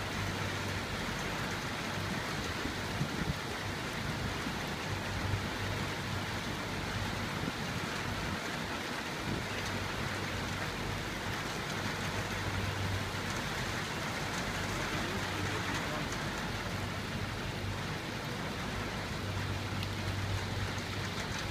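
Steady rain falling, an even hiss, with a low hum that comes and goes.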